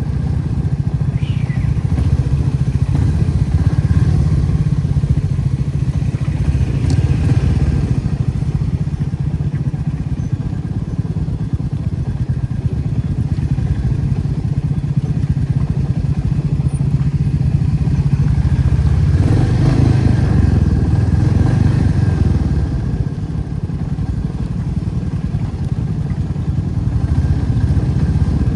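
Motorcycle engine running steadily while being ridden, a continuous low rumble.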